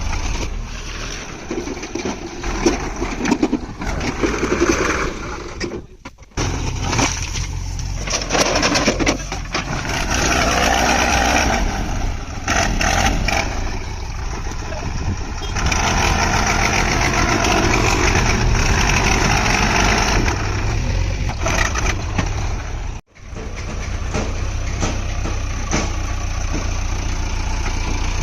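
Heavy diesel machinery engine running, its sound rising and falling with the work, breaking off abruptly twice.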